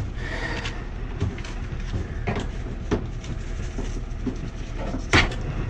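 A few scattered sharp knocks and clicks from hand work with tools and gas-pipe parts, over a steady low hum. The loudest knock comes near the end.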